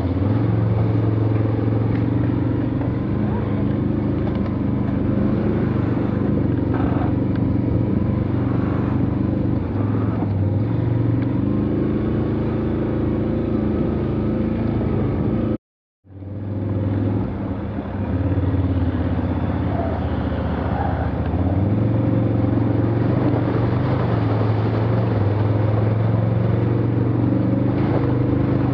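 Off-road vehicle engine running under load, its pitch rising and falling as it drives through mud. It cuts out abruptly for a split second about halfway through.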